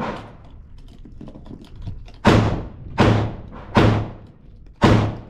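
Four gunshots from a neighbouring shooting bay in the second half, about one every three-quarters of a second to a second, each a sharp crack with a ringing tail. A softer knock comes right at the start.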